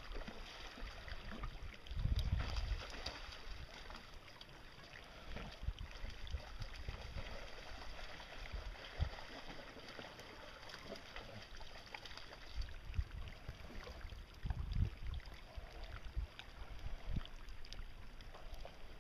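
Water sloshing and gurgling, with a few low gusts of wind buffeting the microphone.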